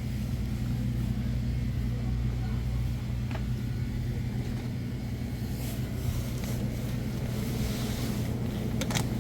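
Steady low drone of a motor vehicle's engine and road noise, with a sharp click near the end.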